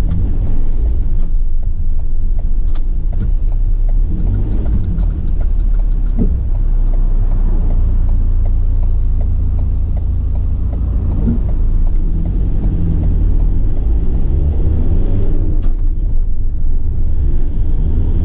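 A 2015 Ford Transit dropside truck's diesel engine and road noise heard from inside the cab as it pulls away and accelerates through the gears: a deep, steady rumble. A short run of rapid clicks comes about four seconds in.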